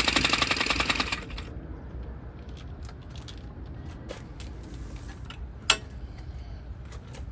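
Compressed-air rack-and-pinion prototype engine running with a rapid mechanical clatter that cuts off abruptly about a second in. After it stops there is only a low rumble with scattered faint clicks, and one sharp click a little past the middle.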